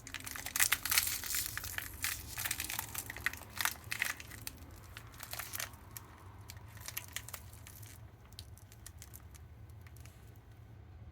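Small debris being cleaned up by hand: dense crinkling and crackling rustle for about six seconds, then fainter, scattered rustling.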